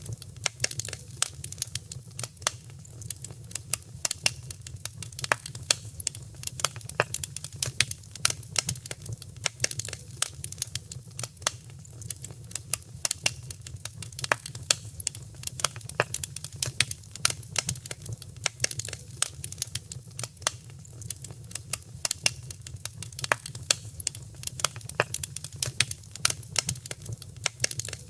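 Wood fire crackling in a fireplace: many irregular sharp pops and snaps, several a second, over a steady low rumble.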